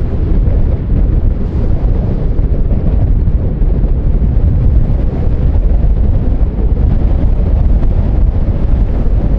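Strong wind buffeting the microphone: a loud, continuous low rumble with no steady tone.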